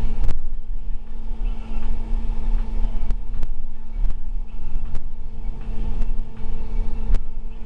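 School bus running on the road, heard from inside: a steady low rumble and engine hum, with several sharp clicks and rattles from the bus body.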